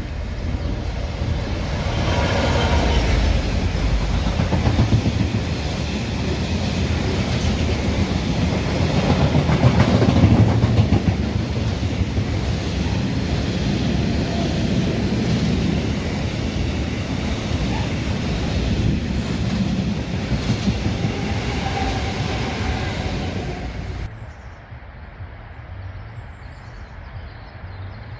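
A train passing at speed: wheels clattering over the rails and running noise building to a peak about ten seconds in and holding, then cutting off suddenly near the end, leaving faint background.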